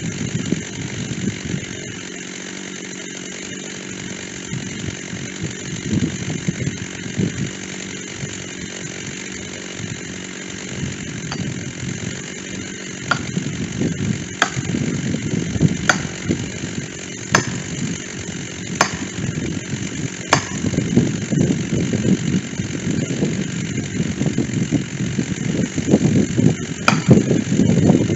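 Stihl chainsaw with a dull chain running and cutting oak, its engine rising and falling under load. Sharp knocks come about every second and a half through the middle of the stretch, with one more near the end.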